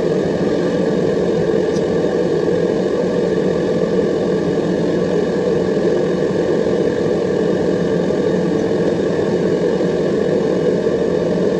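Chainsaw engine running steadily at a constant speed, with no revving or cutting changes.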